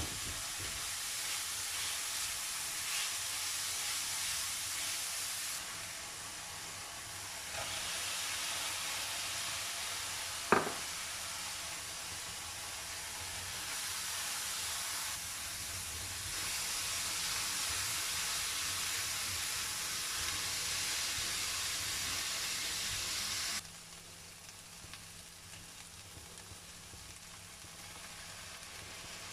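Chicken, onion and diced carrot sizzling in a stainless steel frying pan, a steady frying hiss. A single sharp click sounds about ten seconds in. Near the end the hiss drops abruptly to a much quieter level.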